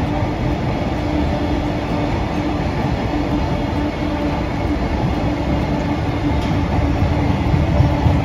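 A train running on the rails: a steady low rumble with a steady hum, growing slightly louder near the end.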